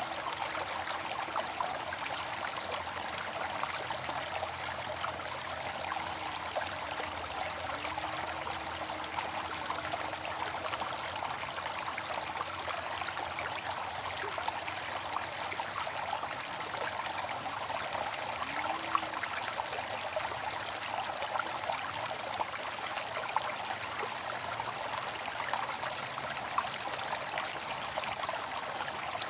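Water fountain running, a steady splashing trickle of falling water with small drips.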